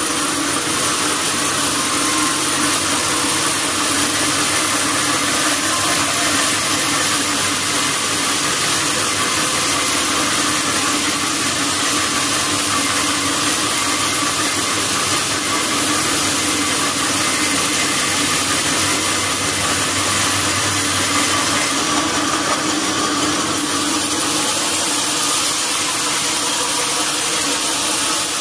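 Sawmill machinery running steadily: a loud, even mechanical noise with a steady low hum underneath.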